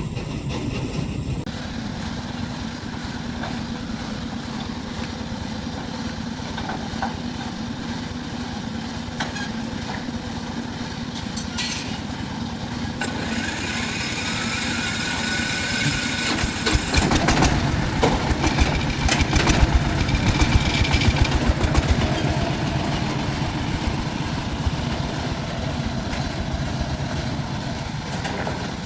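A motor vehicle's engine running steadily, growing louder for several seconds a little past the middle, then settling back.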